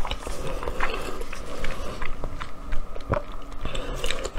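Close-miked eating sounds: wet chewing and lip smacks with irregular sharp clicks as a sauce-coated piece of food is torn apart and bitten.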